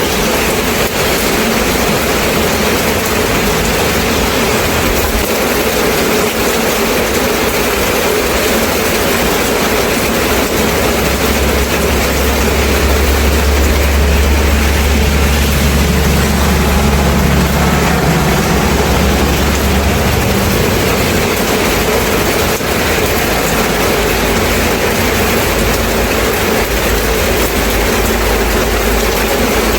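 Steady rain, an even hiss. About a third of the way in, a low vehicle rumble comes up under it and fades again after about ten seconds.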